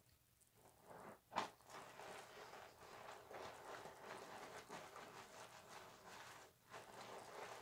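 Bar soap being rubbed and lathered with a wet loofah: a continuous crackly, squishing rub starting about a second in, with one sharp knock just after it begins and a brief pause near the end.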